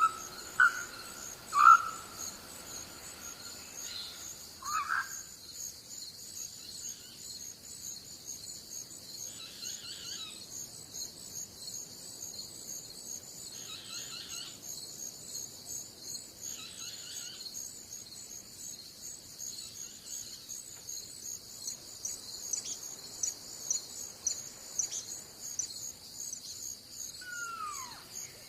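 Insects chirping in a steady, high, pulsing chorus, with several loud bird calls in the first few seconds, softer calls now and then after that, and one downward-sliding call near the end.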